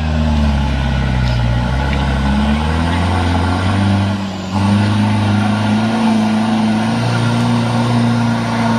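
Truck engine running hard under load, its pitch wavering. A brief dip in level comes a little after four seconds in, then it pulls steadily at a slightly higher pitch.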